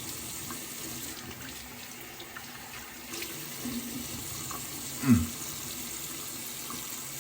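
Water running steadily from a tap into a sink, with one short loud sound falling in pitch about five seconds in.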